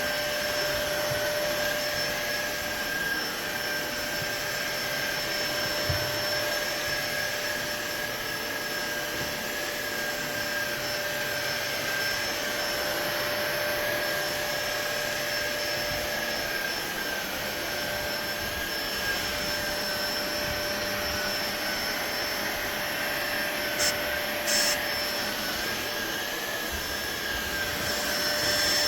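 SunSare cordless stick vacuum cleaner running steadily: a rushing airflow with a high, even motor whine. Two short clicks come late on.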